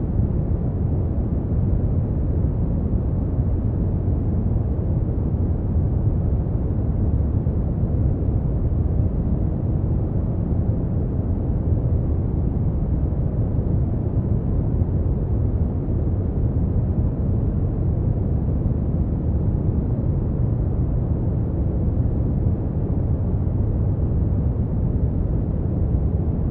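Steady brown noise: an even, deep rumbling hiss, strongest in the low end and fading toward the highs, unchanging throughout.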